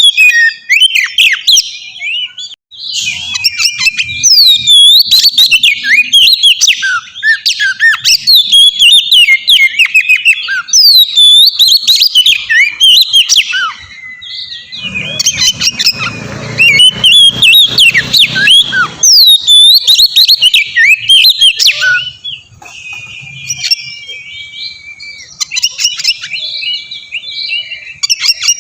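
Oriental magpie-robin (kacer) singing loudly and continuously, a fast run of varied whistled notes, sweeps and trills, played as a lure call to make another kacer answer. A stretch of low noise sits beneath the song around the middle.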